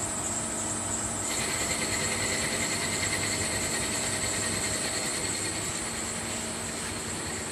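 CNC machine running: a steady mechanical hum and hiss, with a higher whine that comes in about a second in and holds.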